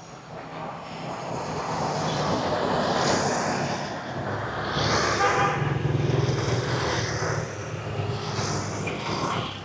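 Street traffic going by close at hand: several vehicles pass one after another, with engine hum and tyre noise swelling and fading in turn.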